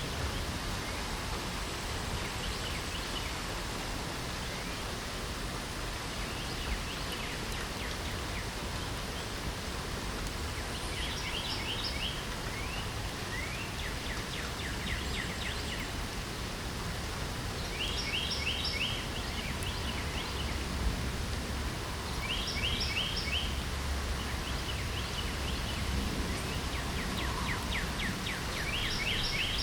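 Steady rain hiss with songbirds singing over it; short, rapid trills recur every few seconds, the clearest in the second half.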